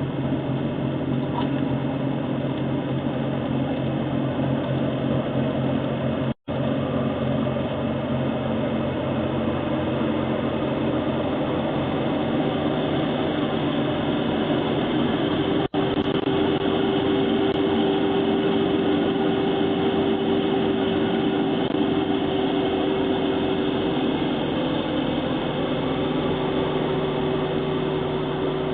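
TYM T574 tractor's diesel engine running steadily, driving a rear-mounted MK Martin Meteor snowblower through snow. The sound drops out for an instant twice.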